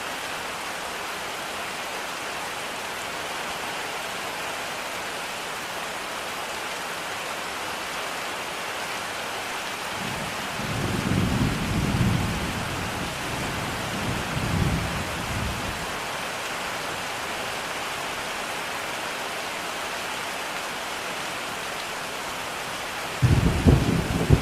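Steady rain with thunder: a low rumble rolls in about halfway through, swelling twice, and a louder roll of thunder breaks suddenly near the end.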